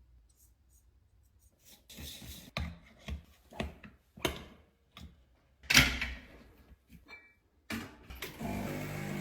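Knocks and clicks of coffee-making equipment being handled, the loudest a sharp knock about halfway through. Near the end a coffee machine motor starts with a steady hum.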